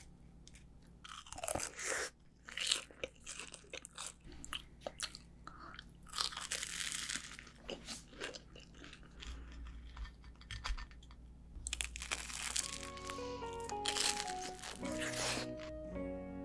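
Crisp, repeated crunching of the deep-fried breadcrumb crust of a Korean cheese hotdog being bitten and chewed, close up. A light background tune with a simple stepwise melody comes in about three quarters of the way through.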